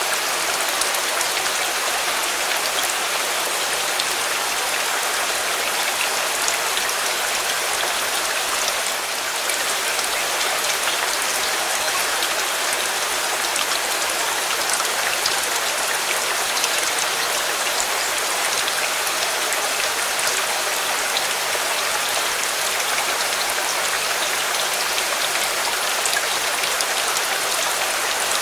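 Steady rain: an even hiss with fine drops pattering on a surface throughout.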